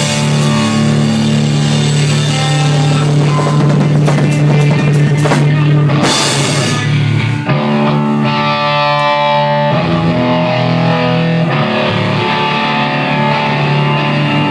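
A rock band playing in rehearsal, recorded raw: distorted electric guitar over a drum kit with crashing cymbals. About halfway through the drums drop out and the guitar holds ringing sustained chords.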